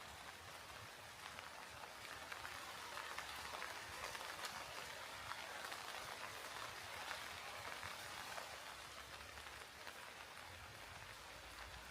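Steady rain falling, a soft hiss of many small drop ticks landing close by.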